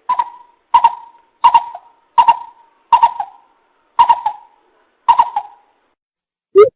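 Coucal lure-call recording: a series of seven hooting notes about two-thirds of a second apart, spacing out slightly toward the end. Just before the end a faster, lower run of hoots begins.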